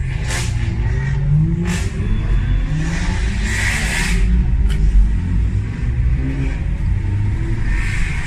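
Loud modified car exhaust revving and accelerating, its pitch climbing in the first two seconds, with a few sharp cracks and a short hissing burst about three and a half seconds in.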